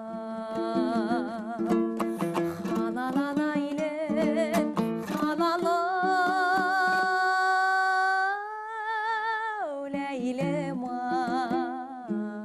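A woman singing a Kazakh lyrical song with a wide vibrato over a plucked string accompaniment, holding one long note in the middle before dropping back down.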